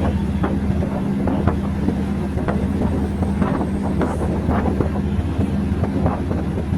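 A passenger train running: a steady low drone with irregular rattles and knocks, and wind noise on the microphone.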